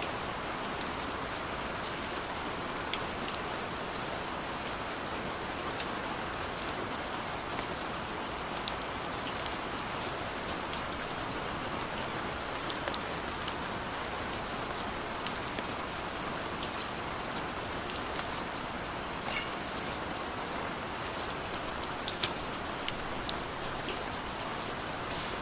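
Steady rain falling, with scattered louder drops and two sharper taps, the louder about two-thirds of the way through.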